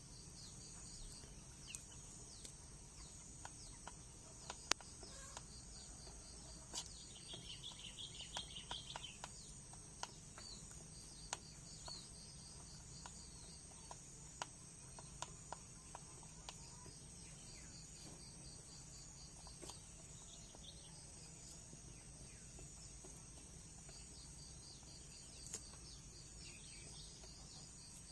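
Faint steady chorus of crickets: a high, even hum with a fast pulsing trill under it, broken by scattered sharp clicks and a brief chirping about seven seconds in.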